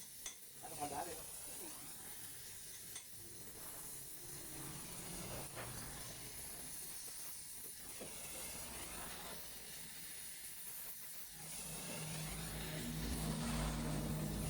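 Steady faint hiss of a welding torch during brass welding of cast iron, with a few light ticks early on. A low hum comes in near the end.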